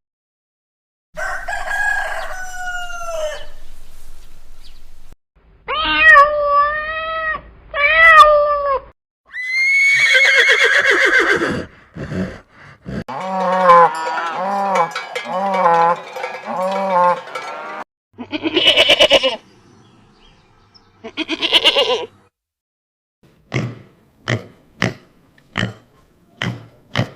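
Farm animals calling one after another, among them goats bleating. The calls come as separate wavering cries of different lengths, with a long wavering call in the middle and a quick run of short sharp calls near the end.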